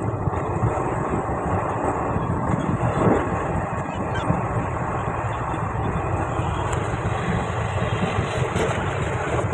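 Steady running noise of a passenger express train moving at speed, heard through an open coach window, with wind blowing over the microphone.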